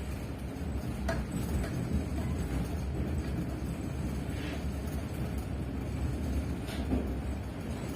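Steady low rumble of a moving passenger train heard from inside the carriage, with a few short clicks and rattles scattered through it.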